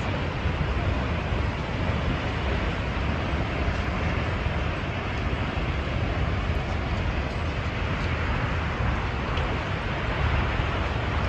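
Steady rushing roar of a large waterfall (Snoqualmie Falls), an even noise with no breaks.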